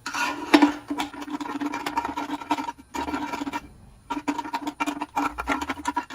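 Quick, repeated scrubbing and rubbing strokes against a small aluminum carburetor part while cleaning gunk out of it with a rag and solvent. The metal rings faintly under the strokes, which pause briefly twice.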